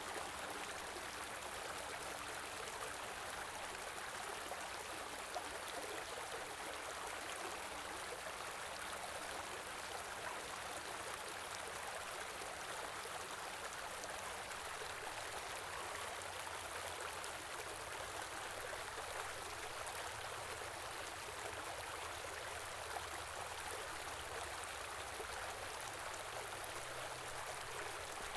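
Small river flowing steadily, an even rush of water with fine splashing and no breaks.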